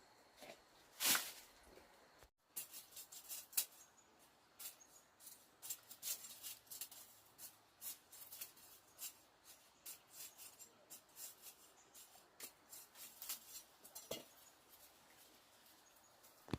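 Irregular light clicks and scrapes, several a second, with a louder scrape about a second in.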